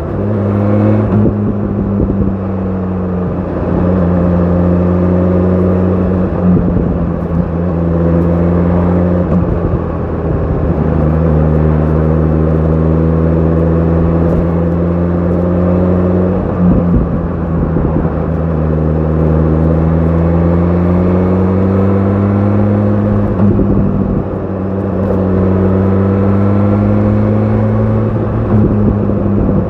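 BMW S1000 RR's inline-four engine with an Akrapovic exhaust, running at steady riding revs. Its pitch climbs slowly and drops back a few times.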